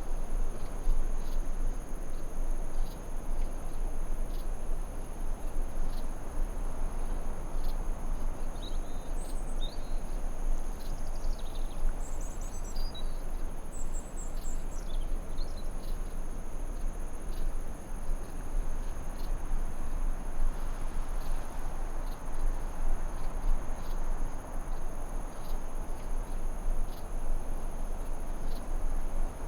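Forest ambience: a steady high insect trill, like crickets, over an even low rushing noise, with a few short bird chirps midway through.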